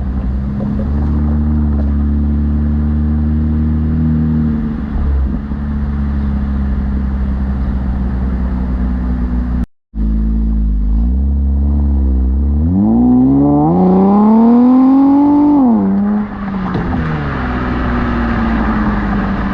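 Infiniti Q50 Red Sport 400's twin-turbo 3.0-litre V6 breathing through a Motordyne cat-back exhaust and AMS lower downpipes, running steadily with a deep drone. It breaks off briefly a little under halfway, then climbs in pitch for about three seconds, drops sharply, and climbs again near the end.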